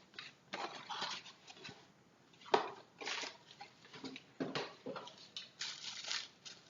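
Handling noise from a full-metal spring airsoft pistol and its magazine: scrapes, rattles and clicks of metal parts, with one sharp click about two and a half seconds in.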